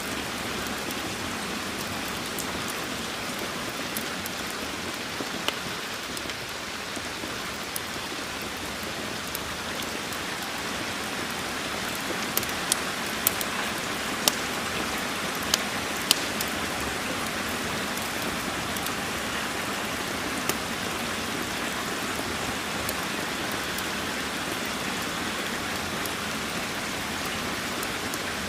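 Steady, even rain, with a handful of sharp ticks clustered near the middle.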